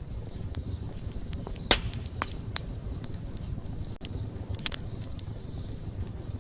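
Wood campfire burning close up, a low steady rumble of flame with irregular sharp crackles and pops, the loudest about a second and a half in.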